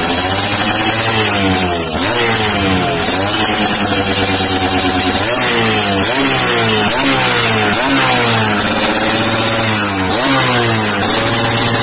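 Yamaha F1ZR two-stroke single-cylinder engine blipped repeatedly through an aftermarket racing exhaust, its pitch rising sharply and dropping back again and again.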